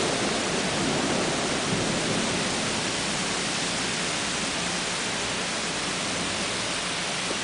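Heavy summer rain pouring down in a steady hiss, easing slightly over the first couple of seconds.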